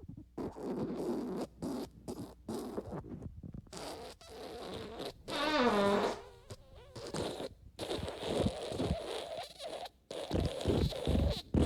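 A run of fart sounds one after another, rasping and sputtering, with one longer squeaky fart about halfway through that falls steadily in pitch. Near the end they turn into quick, rattling sputters.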